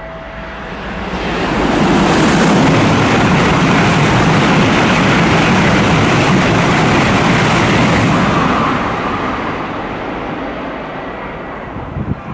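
Tokaido Shinkansen train passing through a station at high speed without stopping: a rush of air and rolling noise that builds over about a second, stays loud for about six seconds, then fades away.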